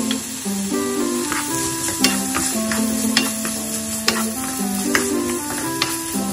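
Sliced onion, chilies and minced garlic sizzling in oil in a nonstick frying pan while a wooden spatula stirs them, knocking and scraping against the pan several times, over background music.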